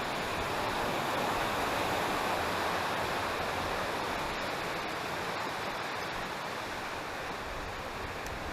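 Steady rush of flowing river water, an even hiss without breaks, slightly louder in the first few seconds.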